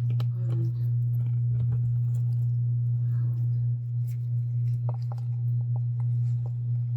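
A steady low hum, the loudest sound, with scattered faint small clicks and taps on top.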